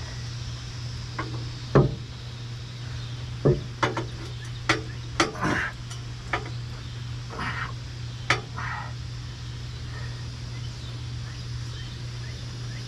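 A handful of sharp, irregular knocks and short scrapes from hand work on a Toyota Sequoia's exhaust pipe under the vehicle, over a steady low hum.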